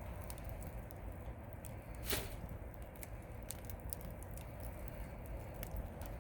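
Wood campfire crackling, with scattered small pops and one louder pop about two seconds in, over a low steady rumble.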